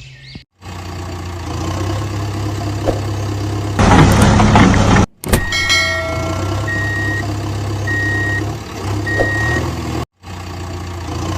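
Vehicle engine sound effects: an engine running steadily, louder for about a second before the middle. After the middle come four short reversing beeps, roughly one a second. The sound cuts out briefly three times between edits.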